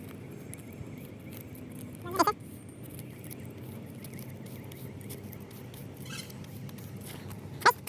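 Faint rustling and creasing of a sheet of paper being folded by hand, over steady background noise. Two short, high squeaky calls stand out, one about two seconds in and one near the end.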